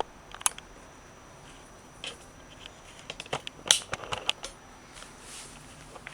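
Scattered short clicks and light knocks of objects being handled, bunched together between about three and four and a half seconds in, with a soft rustle about five seconds in.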